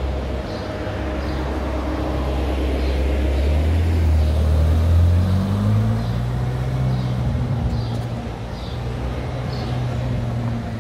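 Ferrari V8 engine running at low revs, its pitch climbing about four seconds in and holding higher.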